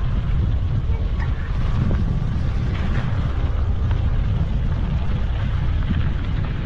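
Wind buffeting the microphone of a camera carried on a moving bicycle: a steady, loud low rumble with a hiss above it.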